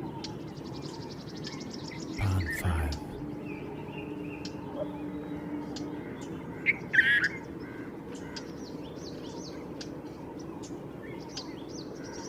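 Birds chirping and calling, with many short chirps throughout and a louder call twice, a few seconds apart.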